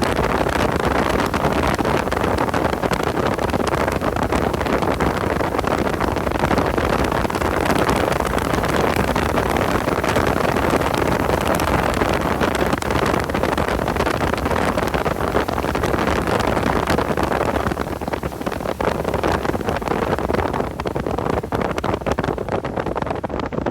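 A car being driven hard on a race track, heard on board: steady engine, wind and road noise that eases a little near the end.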